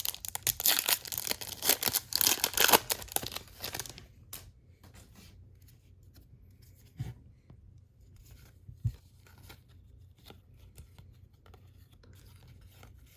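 A baseball card pack wrapper being torn open, with loud tearing and crinkling for about four seconds. Then the cards are handled quietly, with light ticks and two soft thumps.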